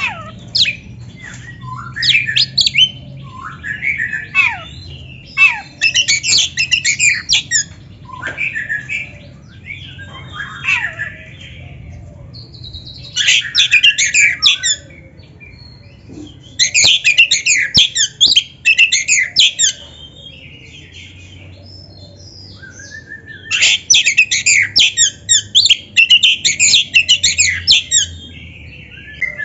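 Oriental magpie-robin (kacer) singing in bouts of rapid, varied whistles and chattering phrases, separated by short pauses.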